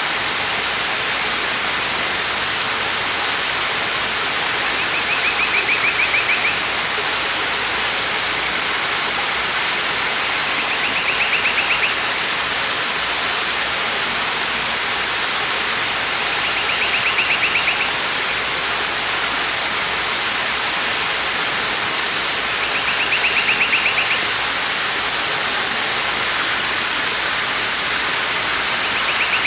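Waterfall: steady rushing falling water. A short high rapid trill cuts in over it about every six seconds, five times.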